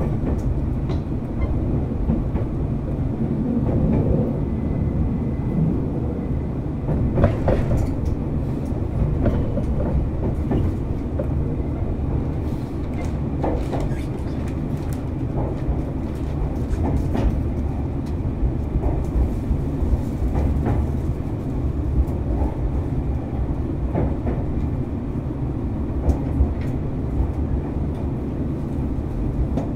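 Running sound inside a Nankai 7100 series electric train car: a steady low rumble of wheels on track, with irregular clicks and knocks from rail joints passing under the car.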